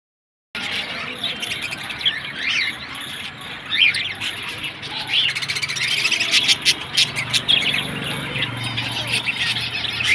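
A mixed flock of cage birds, budgerigars and finches, chirping and chattering continuously with many quick overlapping calls, after a half-second break of silence at the start.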